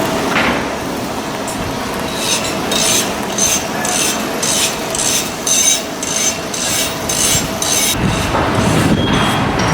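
Rhythmic scraping strokes on metal, about three a second, each with a faint metallic ring, over a steady background of shipyard machinery noise. A heavier low rumble sets in near the end.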